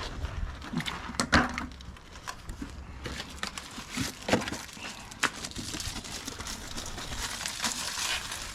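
Hand work on an excavator during a filter change: scattered clicks and knocks of tools and parts being handled, the loudest about a second in, with a rustling hiss through the second half.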